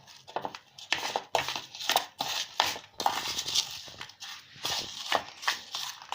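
Spoon stirring a chopped filling in a mixing bowl: irregular clinks and scrapes against the bowl, with soft crunching.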